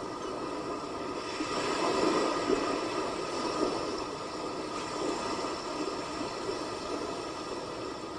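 Sea waves: a steady rush of surf that swells about two seconds in and eases off again.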